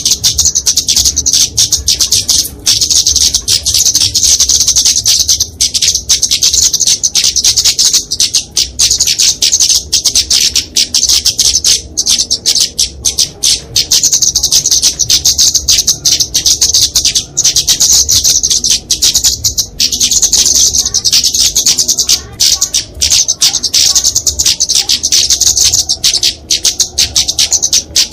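Flowerpecker (kemade) giving its aggressive 'fighting' call: a rapid, continuous stream of high, sharp chips, the call played to lure small birds.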